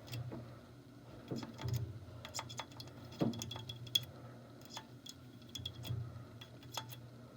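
Scattered light metal clicks and faint scraping of a small tool picking at a furnace's gas burner orifice, clearing out a spider web that blocks the gas.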